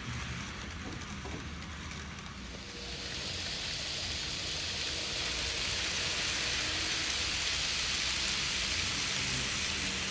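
N gauge model train running on the layout track, a steady rolling hiss that grows louder about three seconds in, as if the train is coming closer.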